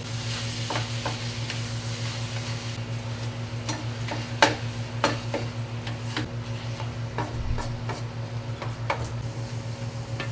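Ground beef frying in a pan and being stirred with a utensil, which scrapes and knocks against the pan at irregular intervals, the sharpest knock about four and a half seconds in, over a steady low hum.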